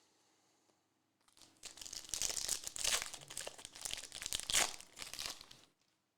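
Plastic trading-card pack wrappers crinkling loudly as they are handled and crumpled, a dense crackle starting about a second in and stopping shortly before the end.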